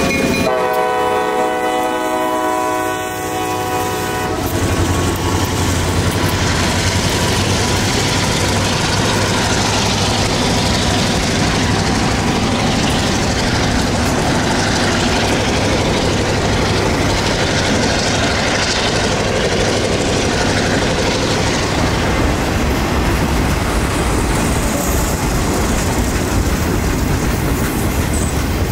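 Diesel locomotive horn sounding one blast of about four seconds, then a train rolling past: the locomotive's engine and the steady rumble and clatter of loaded sugar-cane cars on the rails.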